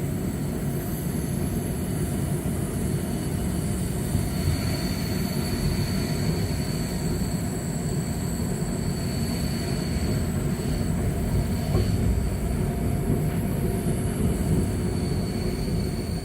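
Flåm Railway electric train running along the track, a steady low rumble of wheels on rail. A faint high squeal comes in about four seconds in, fades around ten seconds, and returns near the end.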